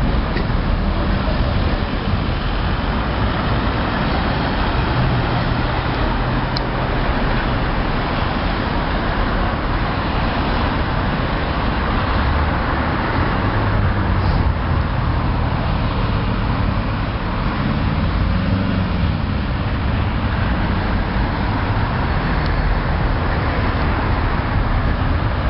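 Steady road traffic: car engines and tyre noise, with a vehicle passing at a rising then falling pitch partway through.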